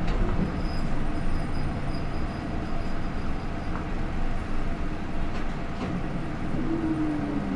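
Hino Rainbow II city bus with an Isuzu 4HK1-TCH turbo-diesel and Aisin automatic gearbox, running along, heard from inside the cabin: a steady drone of engine and road noise. Near the end a low tone slides down in pitch.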